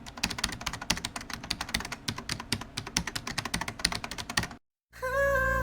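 Rapid, irregular keyboard typing clicks that stop about four and a half seconds in; after a short gap, music begins just before the end.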